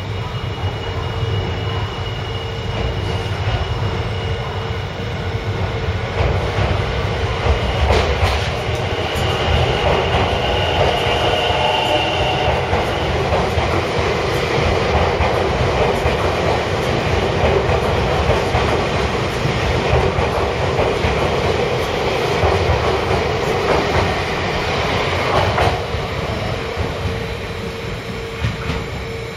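Semboku Rapid Railway 7020-series electric train pulling out of the station and gathering speed past the platform, its running noise growing about six seconds in. The wheels clatter over the rail joints as the cars pass, with a thin high whine from about nine to twelve seconds.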